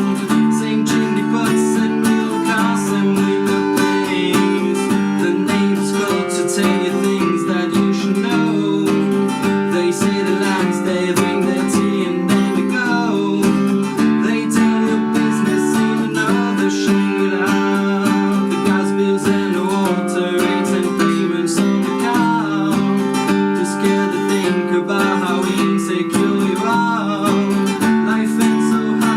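Handmade acoustic guitar strummed steadily through a chord progression, an instrumental passage of a song.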